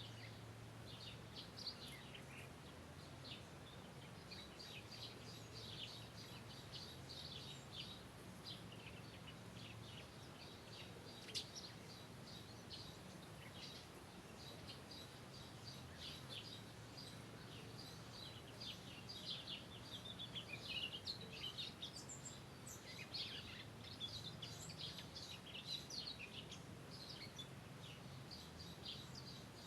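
Small birds chirping and twittering with many short, high calls, busiest about two-thirds of the way through, over a faint steady low hum.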